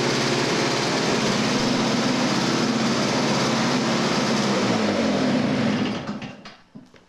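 Toro S200 snowblower's two-stroke engine running steadily after a cold start, then slowing in pitch and dying away about six seconds in.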